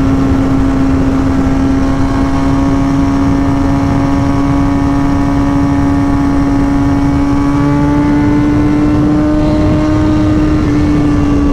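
Inline-four sport bike engine held at steady high revs while riding, its pitch creeping slowly up, with wind rush on the microphone.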